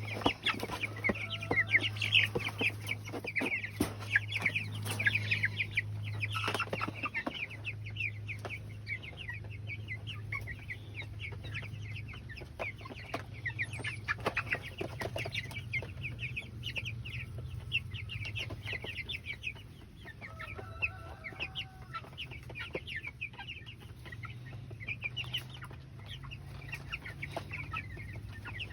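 A flock of young Cornish Cross chicks peeping continuously in many rapid short high peeps, over a steady low hum.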